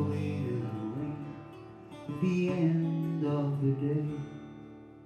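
Acoustic guitar playing the closing chords of a blues song, strummed again about two seconds in, then ringing out and fading away.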